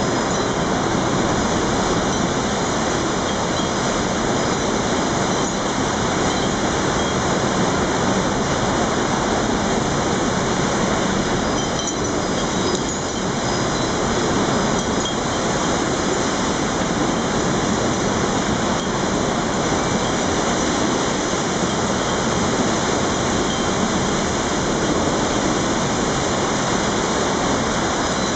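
Typhoon wind blowing hard and without letup, a dense rushing noise, with faint high tinkles now and then.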